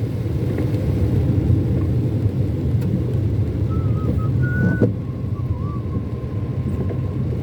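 Steady low rumble of a car's engine and tyres heard from inside the cabin while driving in flowing traffic. A faint thin tone wavers in and out from about halfway through.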